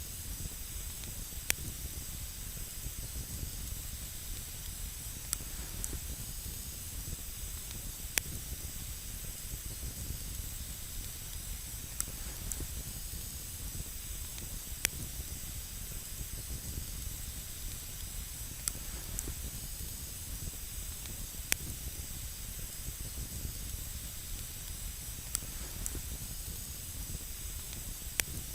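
Campfire of burning wood crackling, with a steady hiss under sharp isolated pops every few seconds.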